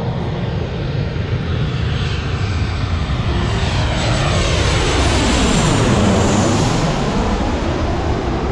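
Jet airliner passing low overhead, its engine roar building to its loudest about six seconds in with a sweeping whoosh, then easing off slightly.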